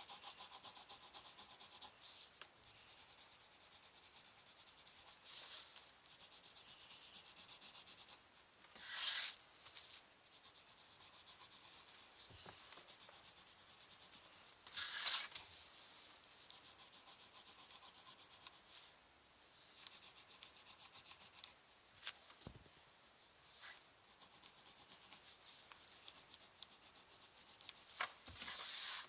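Colouring on paper: rapid back-and-forth strokes of a drawing tool filling in an area, a faint steady scratching with a few brief louder scrapes.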